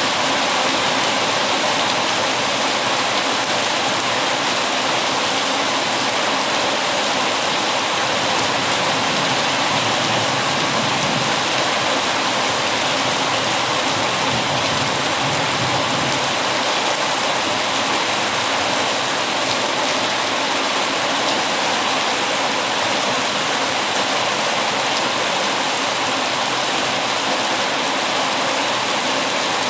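Heavy rain falling steadily, an even hiss with no let-up or change.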